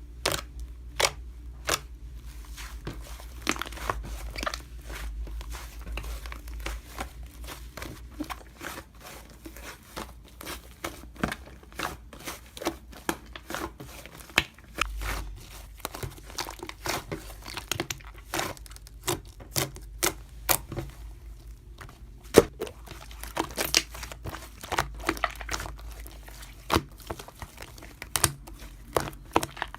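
Close-up crinkling and tearing sounds with many sharp clicks and taps scattered irregularly throughout, over a faint steady low hum.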